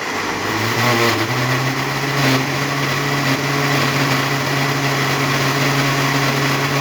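Electric kitchen blender switched on and running at full speed, blending hot pepper sauce. The motor hum starts suddenly, climbs in pitch over the first second, then holds steady under a dense churning whir.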